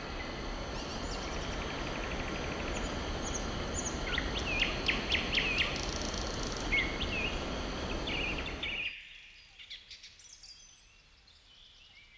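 Small birds chirping in short, sharp calls over a steady background noise; about nine seconds in the background noise cuts off and the chirps carry on fainter.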